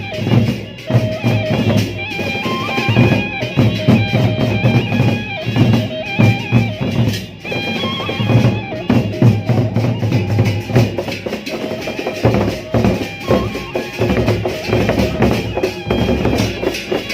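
Sasak gendang beleq ensemble playing: the large barrel drums beat a dense, busy rhythm under a sustained melody line from a bamboo suling flute.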